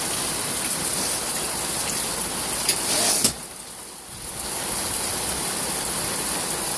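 Heavy rain pouring down steadily with an even hiss. About three seconds in there are a couple of short knocks, and the rain sound then falls away for about a second before coming back at full strength.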